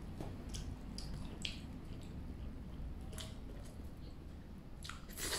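A person chewing a mouthful of steamed meat bun, with a handful of short wet mouth clicks and smacks, the loudest near the end.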